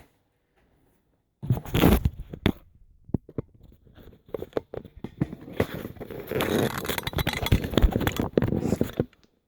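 Close handling noise on the phone's microphone: rustling, scraping and sharp clicks as the phone is handled with a selfie stick, starting after about a second and a half of silence.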